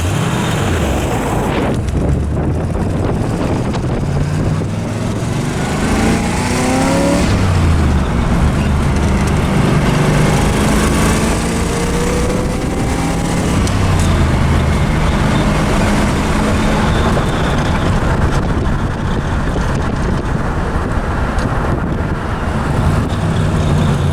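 Chevy 350 small-block V8 of a 1974 Corvette under way on the road, its engine pitch rising as it accelerates and dropping back, several times over, with the stock mufflers still on.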